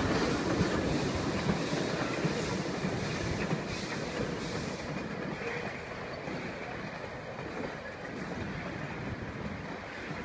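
Puffing Billy narrow-gauge train's wooden carriages rolling over a timber trestle bridge, the rumble fading steadily as the train moves away.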